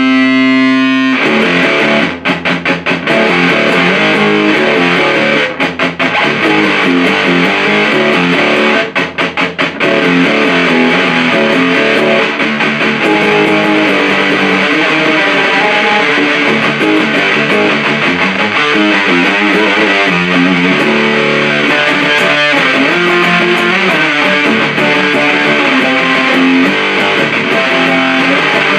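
Electric guitar played through a 77 Fuzz Blender, a Big Muff-style op-amp fuzz pedal, into an Orange Super Crush 100 amp. A held chord rings out until about a second in, then a heavy fuzzed riff follows, with brief stop-start breaks around two, six and nine seconds in.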